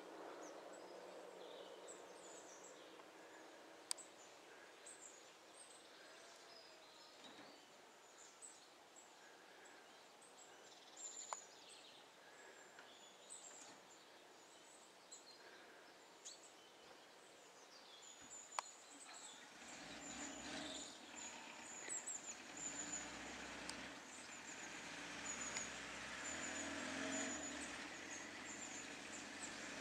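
Faint birdsong with a few sharp clicks, then, from about two-thirds of the way through, the diesel engine of a Peugeot 205 running and growing louder as the car comes closer.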